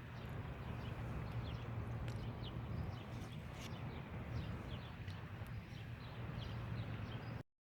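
Small birds chirping, many short falling chirps scattered throughout, over a steady low rumble of outdoor background noise.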